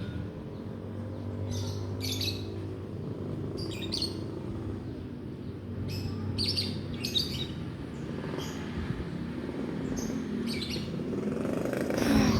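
Pet lovebird giving short, high chirps, singly and in small clusters, repeatedly, over a steady low background hum.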